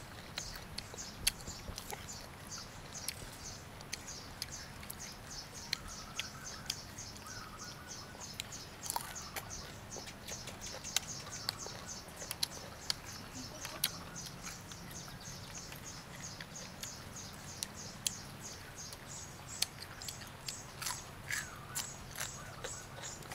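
Close-up crunchy biting and chewing of deep-fried tarantula, with sharp crackling crunches, becoming an even chewing rhythm of about two crunches a second near the end. Behind it runs a steady high chirping, repeating several times a second.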